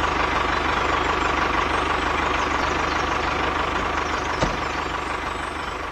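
Small tractor engine running steadily just after starting, with an even low firing beat. A single sharp click sounds about four and a half seconds in, and the engine eases off slightly near the end.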